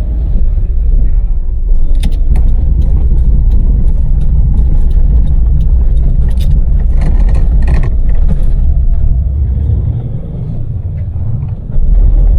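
Daewoo Damas microvan's small LPG engine and tyres running at road speed, a loud steady low rumble, with scattered light clicks and rattles from about two to nine seconds in. The rumble eases about ten seconds in, then comes back strongly just before the end.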